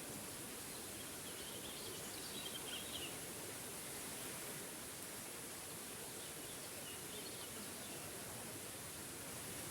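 Steady rushing of a small forest waterfall, with a bird's short twittering calls faintly over it about two seconds in and again around seven seconds.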